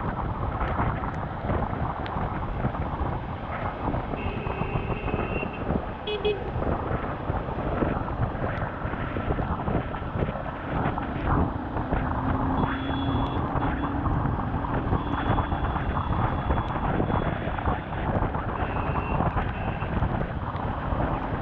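Rushing wind and road noise of a Honda CBR 250R motorcycle ridden through rain at highway speed, with vehicle horns honking briefly several times, about four, thirteen, fifteen and nineteen seconds in.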